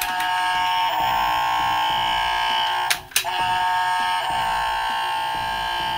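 Button-triggered electronic sound effect from a Scooby-Doo Crystal Cove Fright House toy playset, played through its small built-in speaker: a steady electronic sound of several held tones that breaks off briefly about three seconds in and then starts again.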